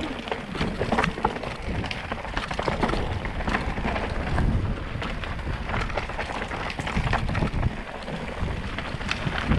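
Mountain bike riding down a rough gravel and rock trail: tyres crunching over loose stones with a continuous rattle and frequent small knocks from the bike.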